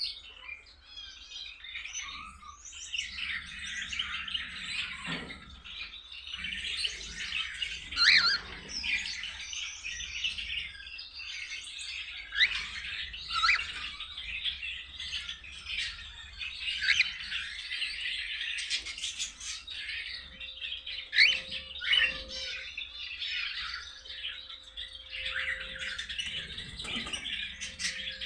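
Cockatiels chirping and chattering almost without pause, with several louder squawks about eight seconds in and again twice a little past the middle. A faint steady low hum comes and goes in the second half.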